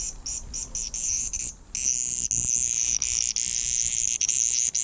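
A cicada buzzing close by: short pulsed buzzes about four or five a second, running together into one steady buzz from about two seconds in, and breaking back into pulses near the end.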